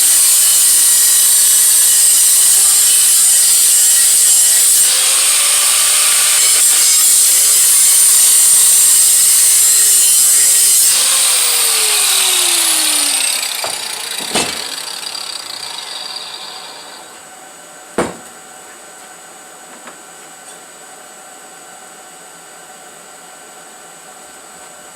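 A power tool grinding metal, rough and hissy, then switched off about eleven seconds in and spinning down with a falling whine. Two sharp knocks follow, then only a faint steady hum.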